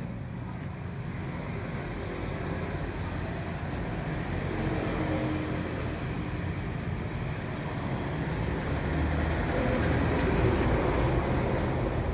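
Steady low rumbling noise of a vehicle on the move, growing a little louder toward the end.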